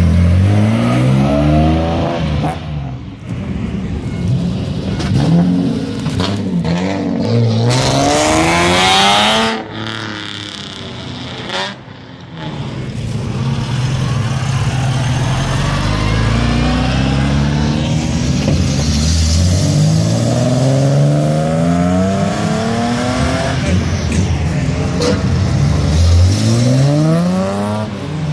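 Modified classic cars' engines revved hard, one after another, as the cars pull slowly past. The pitch climbs and drops again and again, with a brief lull near the middle and another rising rev near the end.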